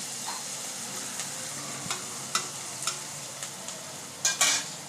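Chopped onion and capsicum sizzling as they fry in oil in a kadai, with a spatula stirring and scraping against the pan a few times; the loudest scrape comes near the end.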